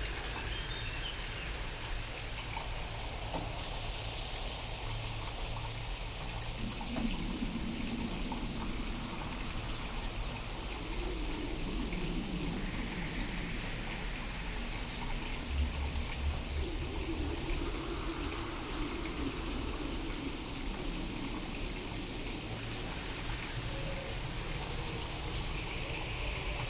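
Steady rain with water trickling, from a real storm recording reworked with sound-design effects so that it sounds otherworldly. A brief low rumble comes about halfway through.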